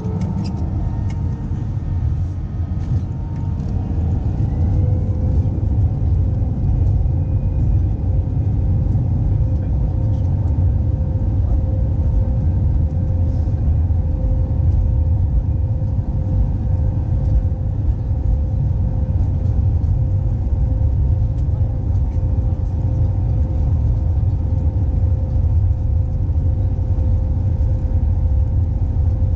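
Airbus A320 jet engines spooling up to takeoff thrust, heard from the cabin: a whine rises in pitch over the first few seconds and then holds steady over a heavy, continuous rumble.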